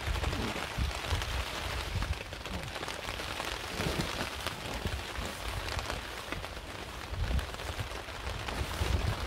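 Heavy rain pelting down on a tarp shelter, an even hiss, with uneven low rumbles from gusts of wind.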